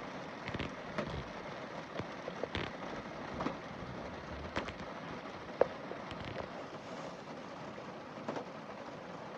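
Rain falling on a car windscreen: a steady hiss of rain with scattered sharp taps of single drops on the glass, one louder tap about halfway through.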